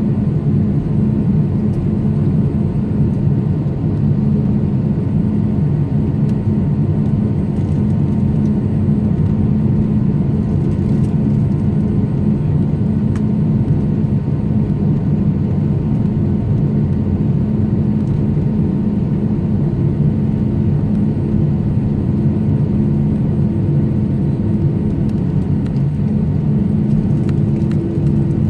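Jet airliner engines giving a steady, unchanging low drone with a hum of several steady tones; no spool-up or fade.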